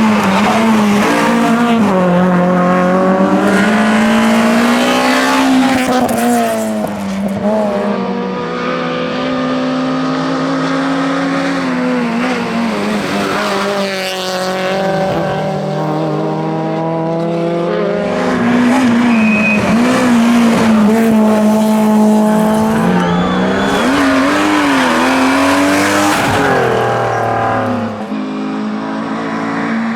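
Rally car engine worked hard on a closed stage, revving up and dropping back again and again as it shifts gear and brakes for bends.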